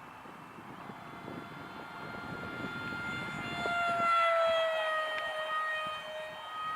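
SkyAngel F-16 RC jet's electric ducted fan whining at high power in a fast pass. The whine swells to its loudest about four seconds in, then its pitch drops as it passes and moves away.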